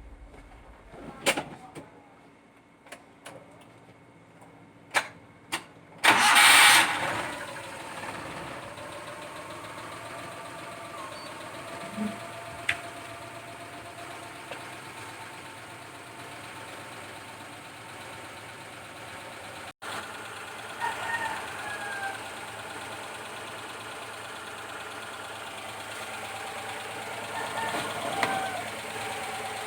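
Suzuki F6A 660cc three-cylinder engine starting about six seconds in after a few sharp clicks, then idling steadily. The engine has just had fresh synthetic oil and its ignition timing set to 9° BTDC.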